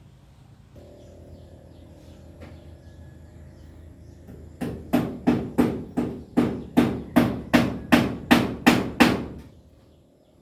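A run of about a dozen sharp, evenly spaced knocks, between two and three a second, like steady hammering or chopping, over a low steady hum.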